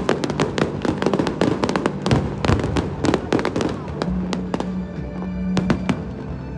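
Aerial fireworks bursting and crackling in rapid succession, with music playing steadily underneath. The crackle is dense for the first few seconds, then thins to a handful of separate bangs near the end.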